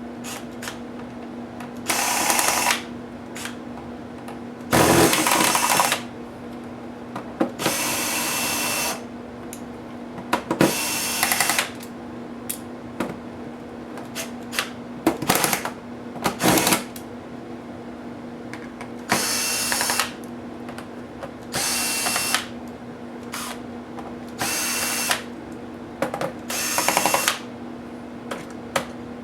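Small electric screwdriver whirring in short bursts of about a second, around ten times, backing screws out of a laptop case. Small clicks and taps sound between the bursts, over a steady low hum.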